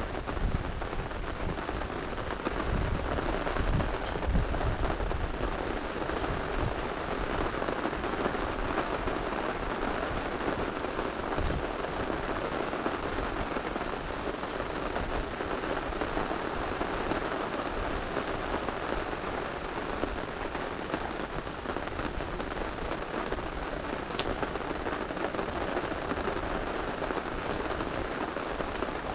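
Steady rain falling, an even dense patter, with a low rumble in the first few seconds.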